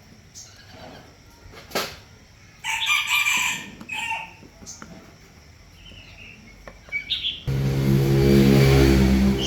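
A rooster crows about three seconds in, with a shorter call just after. Near the end a small engine starts up suddenly and runs loudly and steadily.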